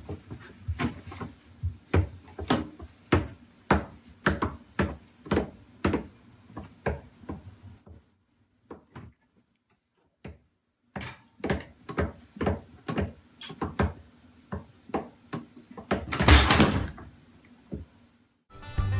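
A quick run of sharp knocks or taps, about two to three a second, stopping for a few seconds midway and then going on, with a louder, longer rattling burst near the end.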